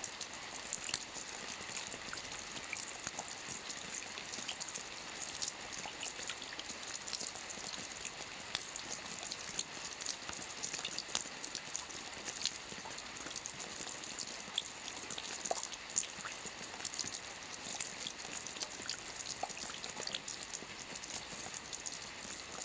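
Steady rain falling, an even hiss with many separate drops ticking close by.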